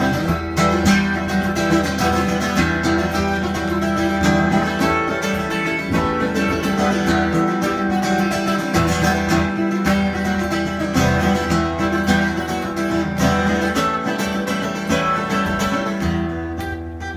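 Acoustic guitar playing an instrumental passage of plucked and strummed chords, getting quieter near the end.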